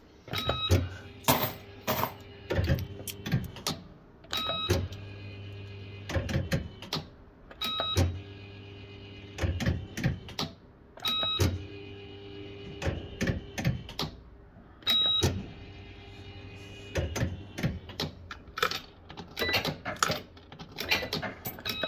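Bell-Fruit FireCracker fruit machine in play: repeated mechanical clunks and clicks, many of them with short electronic beeps, over a steady low hum.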